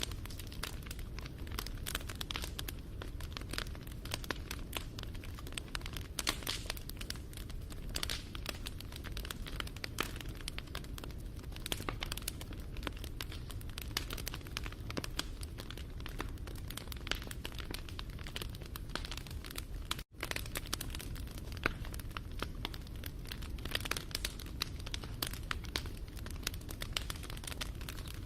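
Wood fire burning, its logs crackling and popping in a dense run of sharp snaps over a low rumble. The sound cuts out for a split second about twenty seconds in.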